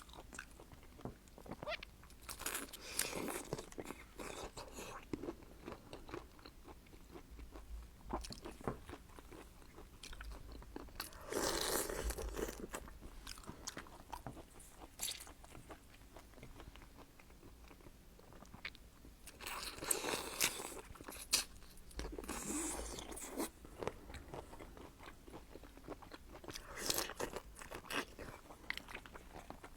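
Close-up eating of seafood: crunching bites and chewing, in louder clusters every several seconds with smaller clicks and smacks between.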